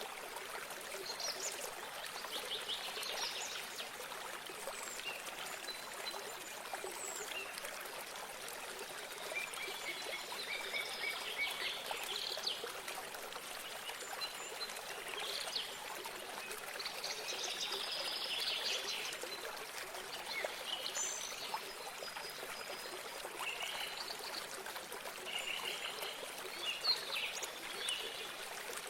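Small stream of water trickling and flowing steadily, with songbirds calling and singing on and off over it throughout.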